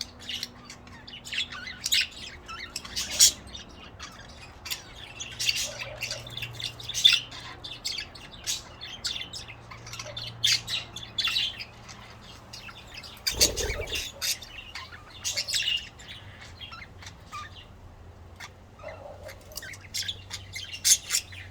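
Budgerigars chirping in quick, short high calls, on and off. About thirteen seconds in there is one brief low thump.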